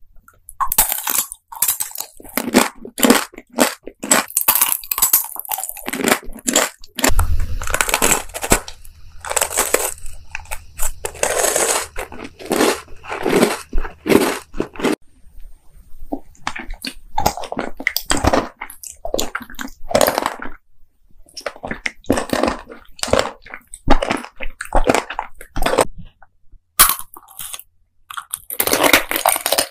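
Close-miked eating: crisp crunching bites and chewing, one after another, as a string of different candies and snacks is bitten into.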